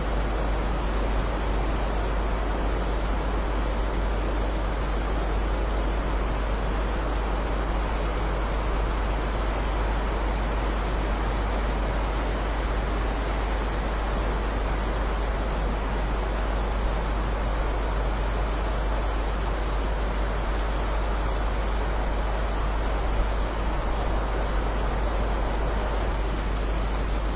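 Heavy rain falling as a steady, even hiss, with a deep low rumble underneath.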